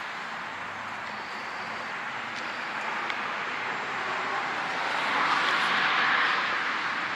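Vehicle noise, a steady rushing sound that swells about five seconds in and then eases off, like a car passing by.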